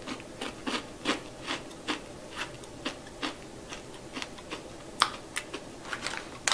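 Crunchy chewing of roasted black rice crackers, a steady run of crisp crunches about two to three a second, with one sharper crack about five seconds in.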